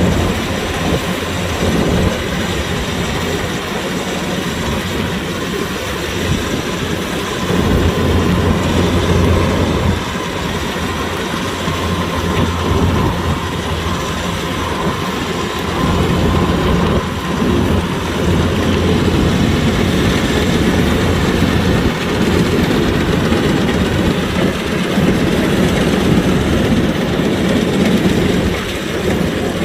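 Kubota DC-105X combine harvester running steadily: engine drone under a continuous mechanical rattle and clatter from the cutting and threshing machinery.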